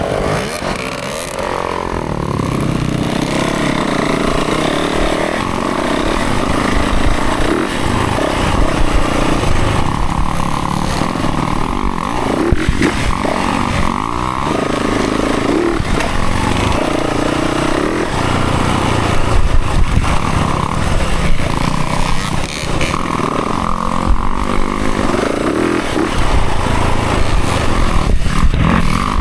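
Dirt bike engine revving up and down with the throttle while riding a trail, its pitch rising and falling again and again.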